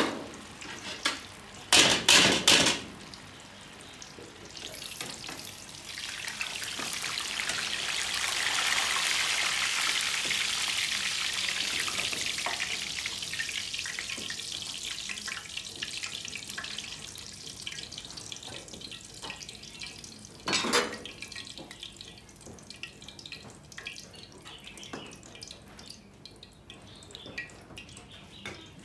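Tofu cubes deep-frying in a pan of hot oil: a steady sizzle that swells to its loudest about nine seconds in, then slowly dies away. A metal ladle clanks against the pan about two seconds in, and once more around twenty seconds in.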